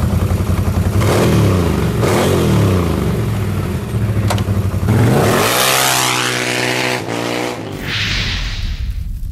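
Motor vehicle engine revving: its pitch sweeps down and up several times, then climbs in one long rising rev that cuts off abruptly; near the end, a short whoosh.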